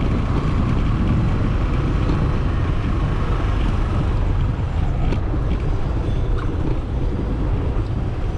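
Motorcycle riding in traffic: a steady, loud rumble of engine and road noise.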